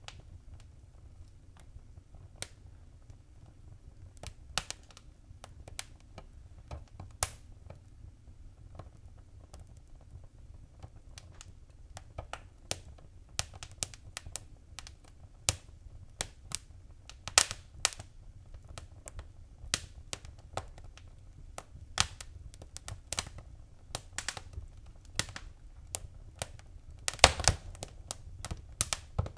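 Wood fire crackling in a fireplace: irregular sharp pops and snaps over a low steady rumble, becoming busier as it goes, with a burst of the loudest pops near the end.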